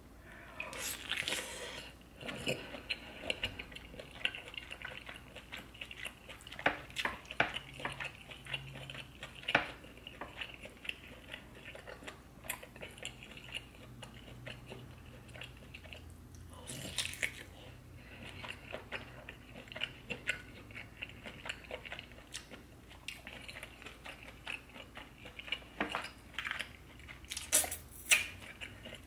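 Close-miked eating of a seafood boil in butter sauce: wet chewing and biting with many short smacks and clicks, in uneven clusters, the loudest near the end.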